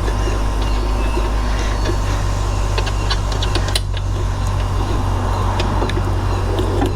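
A steady low hum runs throughout, with a few light clicks of a hand tool working a bracket bolt on a motorcycle about three to four seconds in.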